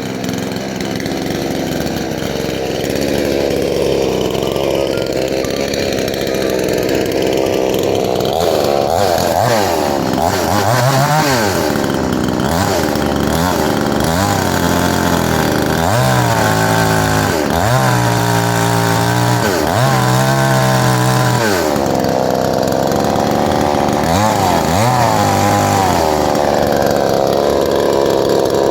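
Counterfeit 72cc Honda-branded two-stroke chainsaw engine running. About nine seconds in it is revved up and down repeatedly for some thirteen seconds, then settles back to a steady run with one more rev near the end.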